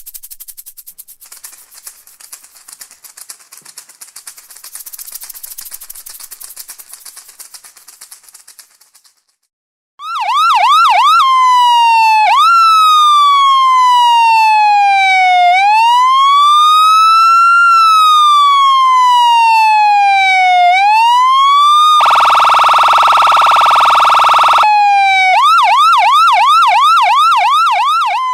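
A high, hissy rattling shake runs for about nine seconds and stops. After a short gap, a loud electronic siren begins with a fast yelp, changes to slow rising-and-falling wails, gives a harsh steady horn blast of about two seconds, and goes back to the fast yelp.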